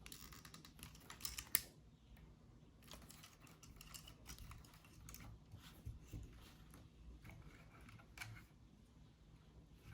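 Hands handling small plastic parts and packaging, making light clicks and rustles: a quick flurry in the first second and a half, then scattered single clicks.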